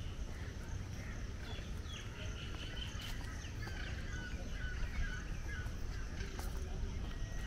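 Several birds calling with short chirps, busiest a couple of seconds in, over a steady low rumble.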